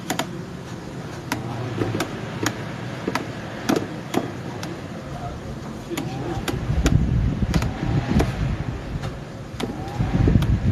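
Electric fan making irregular sharp clicks, about one or two a second, over its running noise. A low, fluttering rumble swells about two-thirds of the way through and again near the end.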